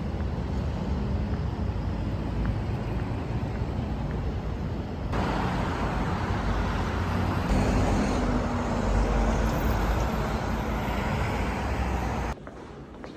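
Steady road vehicle and traffic noise with a heavy low rumble, getting louder about five seconds in and cutting off suddenly near the end.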